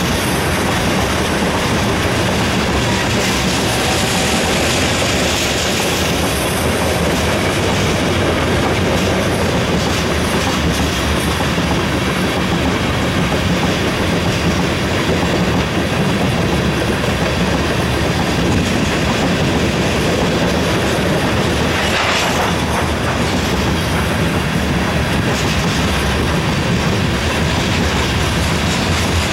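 Covered hopper cars of a long freight train rolling past close by: a steady loud rumble of steel wheels on rail with a clickety-clack over the rail joints. A short higher-pitched sound stands out about two-thirds of the way through.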